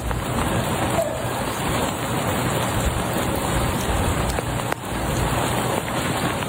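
Freezing rain falling steadily, an even dense hiss with a few faint ticks.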